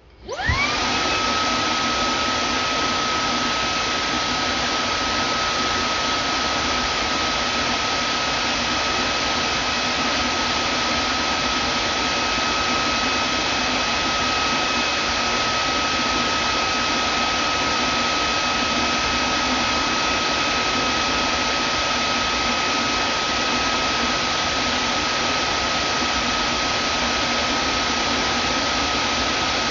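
Vacuum cleaner motor switching on and spinning up within the first second with a rising whine, then running steadily: an even rushing of air with a constant high motor whine on top.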